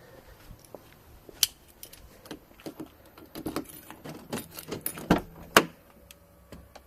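Keys jangling, with a string of irregular sharp clicks and knocks, the loudest two a little past five seconds in.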